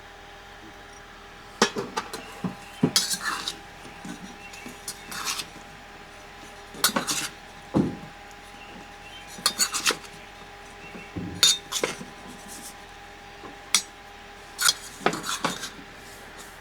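Cutlery and dishes clinking and clattering in irregular bursts, as when camp cookware and utensils are handled.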